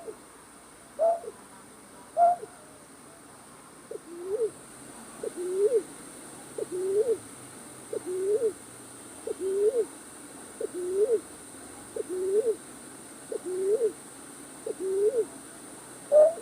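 Night bird calling over and over in low hooting notes: at first a single short note about once a second, then from about four seconds in a two-part call, a short note followed by a rising hooked note, repeated evenly every second and a half or so.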